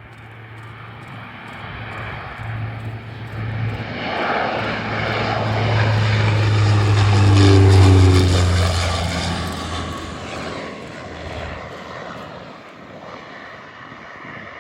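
Rex (Regional Express) airliner on final approach passing low overhead. Its engine noise builds, peaks about eight seconds in with a falling whine as it goes over, then fades away.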